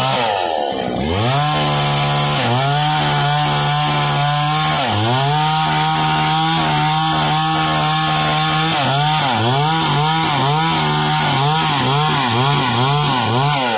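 Small top-handle chainsaw running at high revs. The revs dip briefly about a second in and again around five seconds, then pulse quickly up and down several times in the last few seconds before dropping off at the end.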